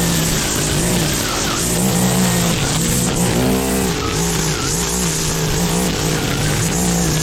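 Petrol lawn mower engine running hard, its pitch dipping and recovering about once a second as it labours under load in thick wet grass, with a brief rise and fall in pitch about three and a half seconds in.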